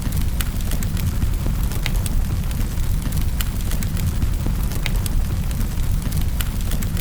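Wood fire burning in a fireplace: sharp crackles and pops at irregular intervals, about one a second, over a steady low rumble.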